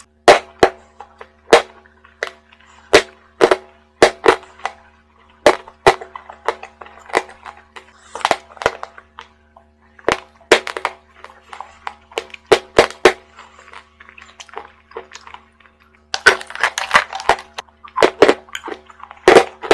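Close-up chewing of chalk in the mouth: sharp, irregular crunches and mouth clicks, roughly one or two a second, growing into a denser run of crunching about sixteen seconds in.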